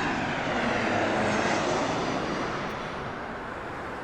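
Jet aircraft passing close by, its engine roar swelling to a peak about a second in and then fading, its whine falling in pitch as it goes by.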